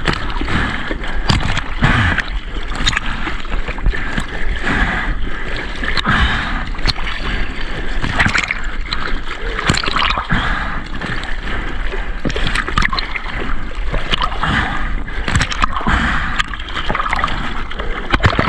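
Seawater splashing and sloshing close to a surfer's POV camera, with many short splashes throughout.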